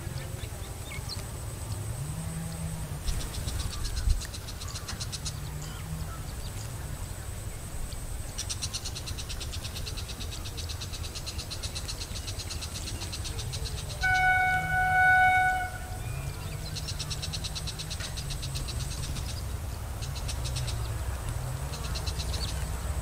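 A steady low rumble from a railway line, with one horn blast of about a second and a half just past the middle. Bursts of rapid high-pitched ticking come and go.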